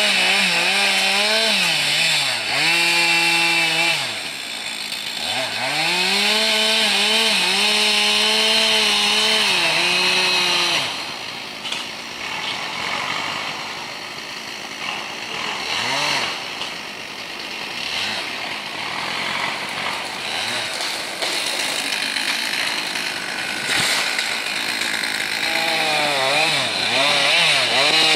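Two-stroke chainsaw held at high revs in two long runs, its pitch sagging and recovering as it works. For the middle half it is quieter and less even, and near the end it revs hard again with a wavering pitch.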